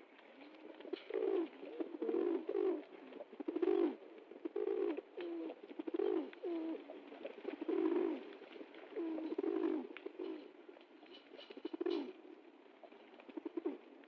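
Pigeons cooing: low, throaty coos one after another about every second, some overlapping as more than one bird calls.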